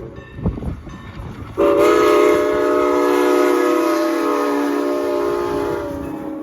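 Chime steam whistle of Norfolk and Western 475, a 4-8-0 steam locomotive, sounding a long blast of several tones together that starts about a second and a half in, after a short break filled with wind buffeting the microphone.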